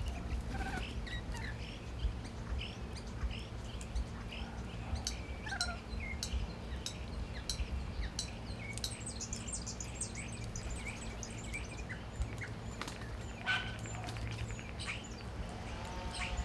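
A group of birds chirping and calling at a feeding spot: many short overlapping chirps and clicks, with a few falling calls, over a steady low hum.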